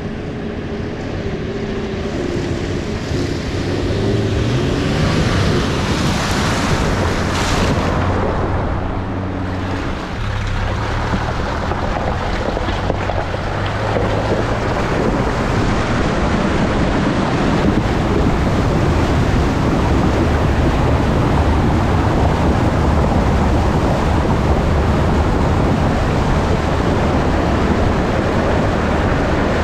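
Nissan GQ Patrol four-wheel drive running as it fords a river, its engine note changing pitch during the first ten seconds or so, then mostly drowned by a steady, loud rush and splash of water.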